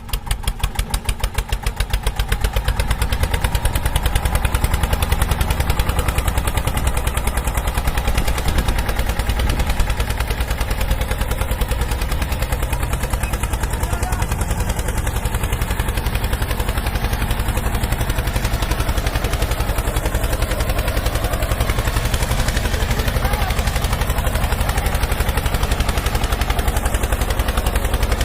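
A motor running with a rapid, even pulse, building up over the first couple of seconds and then holding steady.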